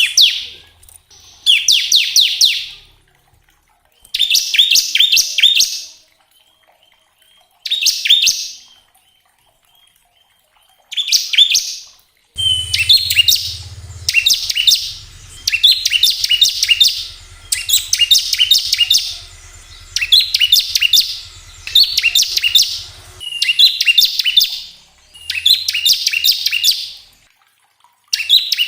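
Bar-winged prinia (ciblek) singing its rapid machine-gun trill ('ngebren'): bursts of very fast, high notes, each a second or two long. They are separated by pauses at first, then follow one after another from about halfway through.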